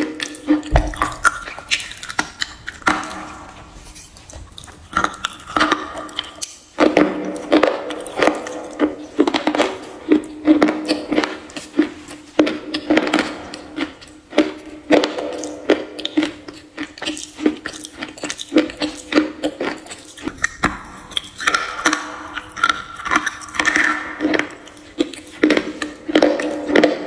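Close-miked crunching and chewing of a mouthful of slate pencil, about two chews a second, with a short pause near the quarter mark. A steady low hum sits underneath.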